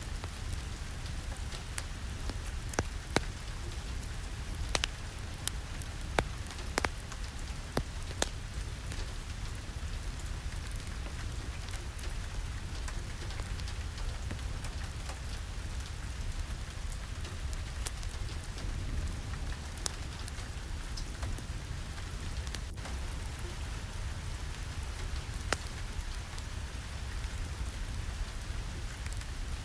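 Steady rain falling, with a low rumble underneath. Scattered sharp pops or crackles stand out over it, most of them in the first ten seconds.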